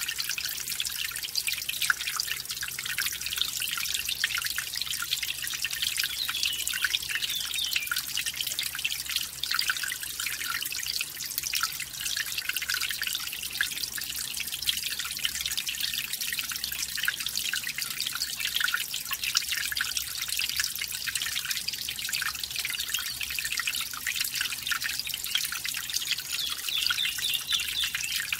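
Small mountain stream running over a small waterfall: steady splashing and trickling water with fine dripping detail.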